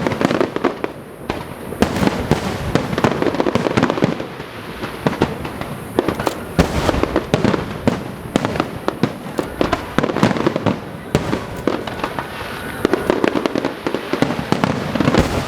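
Aerial fireworks exploding in rapid, irregular succession: many sharp cracks and bangs over a continuous rumble of bursts.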